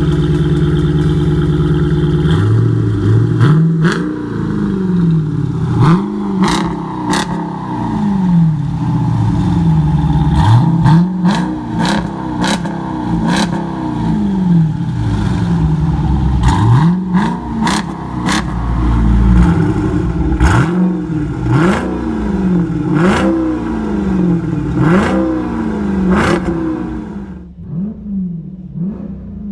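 2015 Jeep Grand Cherokee SRT's 392 (6.4-litre) HEMI V8 through a Tunnel Ram performance exhaust, idling steadily and then revved over and over in quick throttle blips, each note rising and falling back. The revving fades out near the end.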